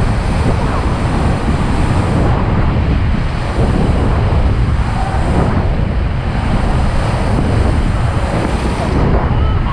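Whitewater rapids rushing loudly and steadily around a raft, with heavy wind buffeting on the microphone.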